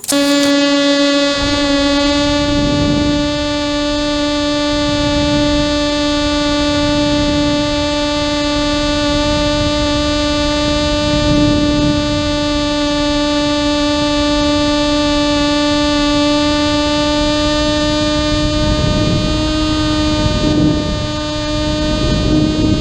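A single steady droning tone with many overtones starts suddenly and holds unbroken, rising slightly in pitch near the end, over a low uneven rumble.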